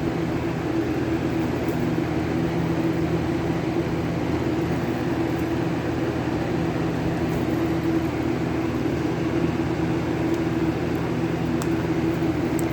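Steady mechanical hum with a low drone that holds even throughout, without distinct clicks or knocks.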